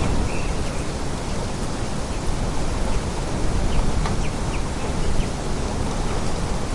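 Steady rushing noise of a storm ambience, wind and snow, at an even level, with a few faint, short, high chirps scattered through it.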